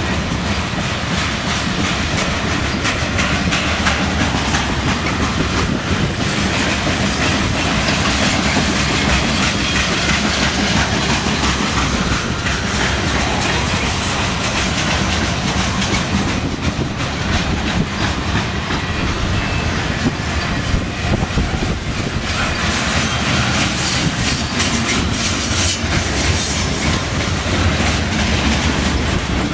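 Covered grain hopper cars of a freight train rolling past: a loud, steady rumble and rattle of steel wheels on rail, with a continuous clickety-clack of wheels over the rail joints.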